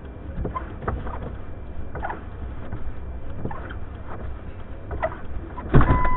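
Blizzard wind buffeting a car, a steady low rumble with scattered light knocks. Near the end comes a sudden loud rush of noise, then a steady electronic beep starts.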